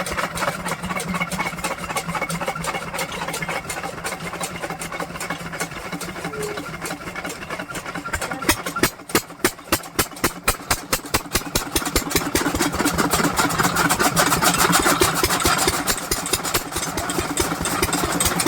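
Diesel engine of a chaff-cutter machine running with a steady, rapid knocking beat. About nine seconds in the beats slow and spread out for a couple of seconds, then pick up again.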